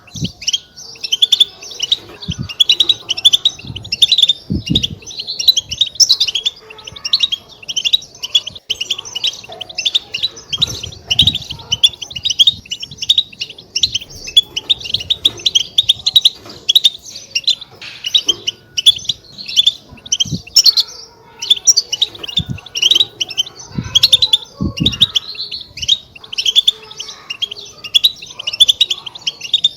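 European goldfinches' batbata: a dense, continuous twittering chatter of short, quick chirps. A few brief low thumps sound under the chatter.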